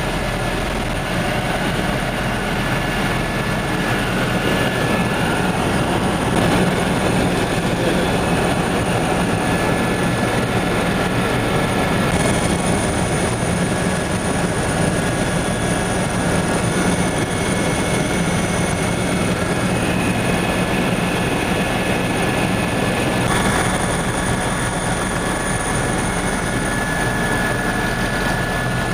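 Helicopter in flight, heard from on board: steady engine and rotor noise with a steady high whine over it.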